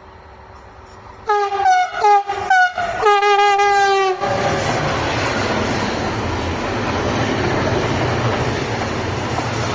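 Train horn sounding in about three short blasts and then one longer blast, the pitch dropping slightly, followed by the steady rushing rumble of the train running past.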